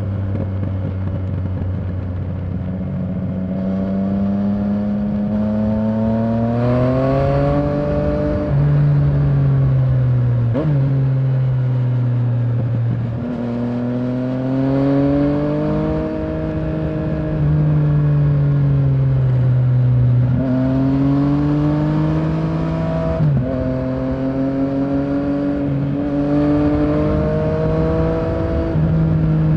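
Yamaha Tracer 900's inline-three engine pulling under way, its pitch climbing and then dropping suddenly again and again as the bike accelerates and changes gear, with a hard drop about every two to five seconds.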